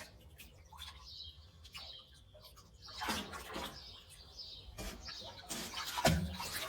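Birds chirping in short calls, over intermittent water splashing.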